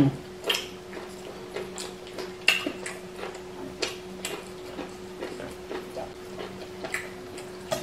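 Eating sounds at close range: scattered wet clicks and smacks of chewing and lips as fish and pounded yam are eaten by hand, over a steady low hum.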